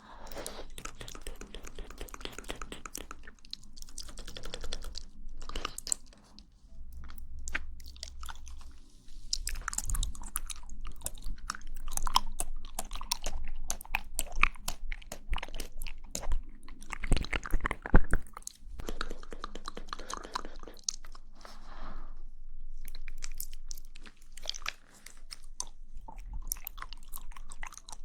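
Close-miked mouth sounds of someone eating jelly: wet chewing, squishing and lip smacking, in quick irregular clicks and short bursts.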